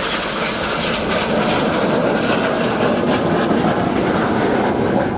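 Loud, steady jet noise from BAE Hawk T1 jets of the Red Arrows flying in the display.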